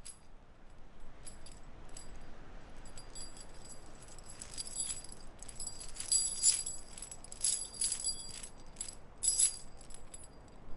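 Metal chains rattling and jingling in irregular shakes, busiest and loudest in the second half, over a steady hiss of blizzard wind.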